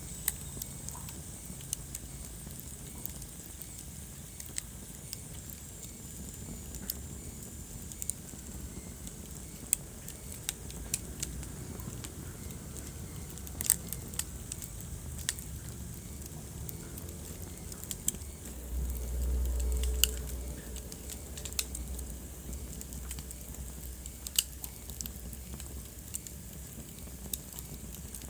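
Wood fire burning in a fireplace, crackling with scattered sharp pops over a steady low rumble. The rumble swells briefly for about a second roughly two-thirds of the way through.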